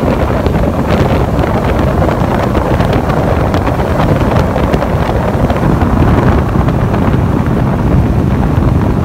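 Yamaha Pro V outboard running at speed on a bass boat, mixed with heavy wind buffeting the microphone and rushing water from the wake.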